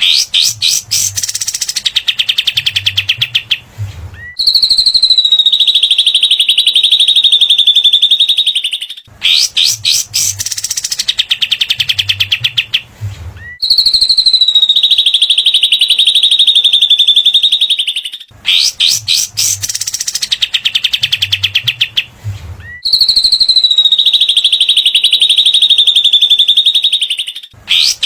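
Looped recording of cililin and katem songbirds: a fast stuttering chatter, then a long, harsh buzzing trill ('besetan') that sags slightly in pitch. The same cycle repeats about every nine seconds, three times.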